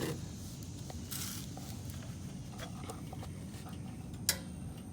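Faint handling noises while oil is being added to a small engine: a short rustle about a second in and a sharp click near the end, over a steady low hum.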